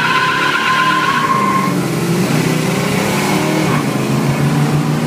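Big-block V8s of a Chevelle 454 and a Plymouth GTX 440 at full throttle in a roll race, heard from inside one of the cars. Tires squeal for the first second and a half. The engine note dips and climbs again twice, at upshifts.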